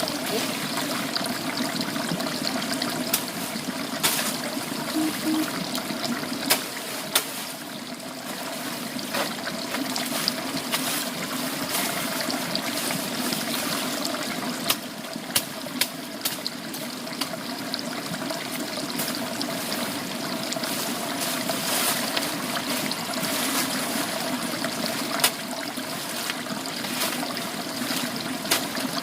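Water trickling and flowing steadily, with scattered sharp clicks and taps.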